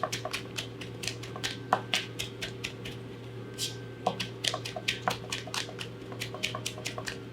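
Knife rapidly chopping on a cutting board while mincing garlic: quick even taps, about five a second. Halfway through there is a short pause with a brief scraping sound, then the chopping resumes.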